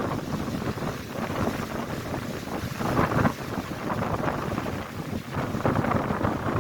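Strong gusting wind buffeting the microphone, surging and easing every second or two, over Lake Erie waves crashing against the shore.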